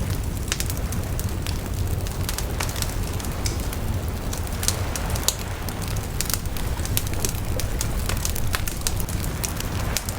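Wood bonfire burning: frequent irregular crackles and sharp pops over a steady low rumble.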